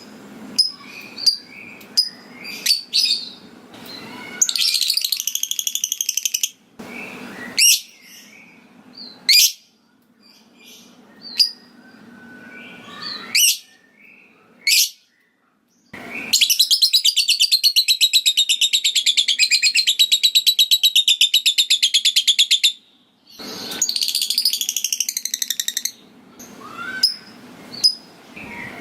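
A lovebird calling. It opens with a series of short, sharp ticking chips ('ngetik'). These give way to fast, rapidly pulsed chattering trills ('ngekek'), the longest lasting about six seconds in the second half.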